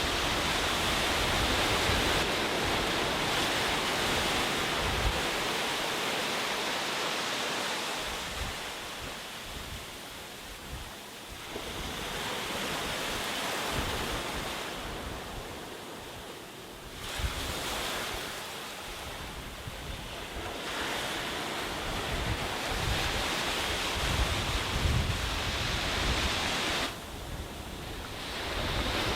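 Sea waves breaking and washing up a beach, the surf swelling and fading every few seconds, with wind buffeting the microphone.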